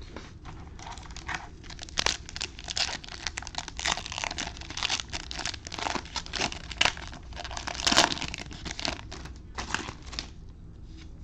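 A trading-card pack's foil wrapper being torn open and crinkled by hand: a dense run of sharp crackles through most of the stretch, dying away near the end.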